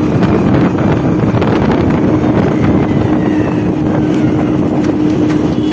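Hero Honda Splendor motorcycle's single-cylinder four-stroke engine running steadily while riding, with heavy wind noise on the microphone.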